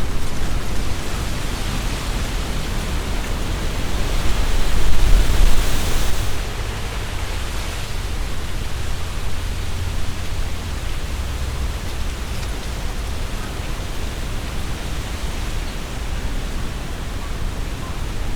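Strong wind gusting through tree leaves: a rushing rustle of leaves with low wind rumble on the microphone. A stronger gust swells about four seconds in and eases off about two seconds later.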